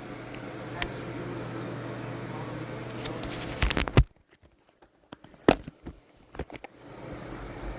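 A few sharp knocks and clicks from handling during the repair, over a steady low hum. The hum cuts out for about three seconds after the loudest knocks, leaving only scattered clicks, then returns near the end.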